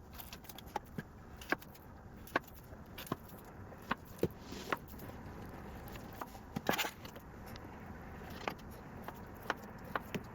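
Kitchen utensils clicking and tapping at irregular intervals, with a brief louder clatter a little after the middle.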